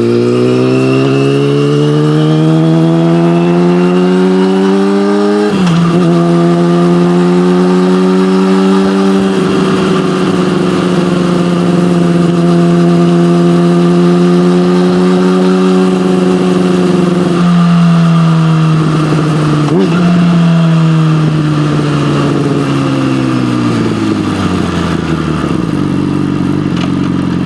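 Yamaha motorcycle with an SC-Project exhaust accelerating through a gear, with an upshift about five seconds in, then holding a steady cruise. Later the engine note steps down twice as the rider rolls off and shifts down, and falls to a low, steady note near the end.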